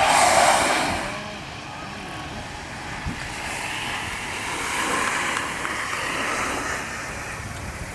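Board sliding and scraping over the slope with rushing wind on the microphone, loudest right at the start and swelling again midway.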